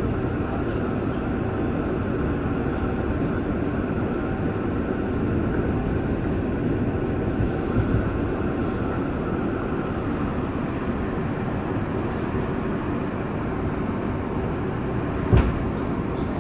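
Steady low rumble and hum inside an R188 subway car on the 7 line, with a single short knock about fifteen seconds in.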